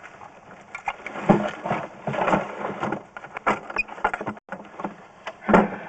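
Irregular clicks, knocks and clatter from a sewer inspection camera's push cable and reel being handled, over a faint steady hum.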